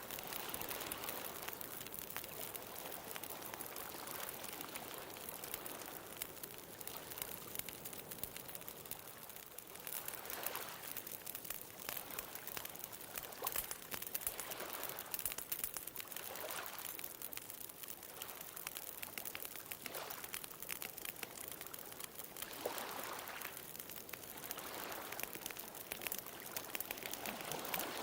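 Wood bonfire crackling with frequent sharp pops over a steady hiss, while small ocean waves wash in every few seconds.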